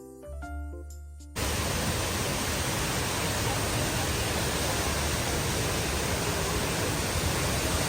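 Background music with stepped melodic notes cuts off abruptly about a second and a half in. It gives way to a loud, steady rush of falling water from a large waterfall.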